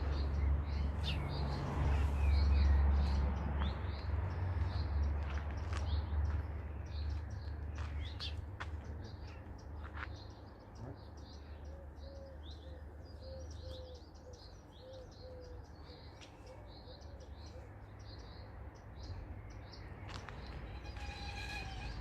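Small birds chirping and twittering over and over, with a low rumble underneath that is strongest in the first several seconds and then eases off. Around the middle comes a run of about ten short, lower-pitched notes.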